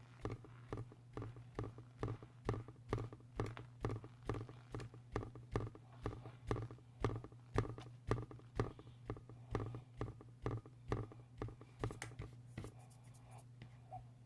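Close-up mouth chewing of a crunchy mix of chunks and powder, a steady run of crisp crunches a little over two a second that die away near the end. A steady low hum sits underneath.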